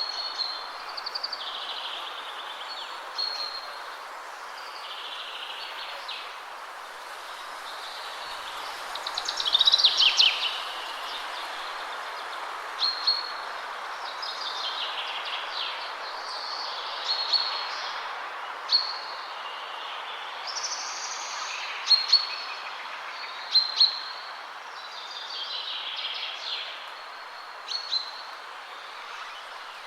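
Songbirds singing and calling over a steady rustle of wind in trees, with short high calls repeating every second or two and a louder, fast run of song about nine to ten seconds in.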